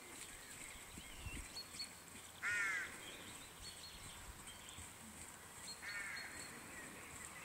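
A bird gives two short, harsh caws about three and a half seconds apart, the first the louder, over faint chirps and whistles of small birds.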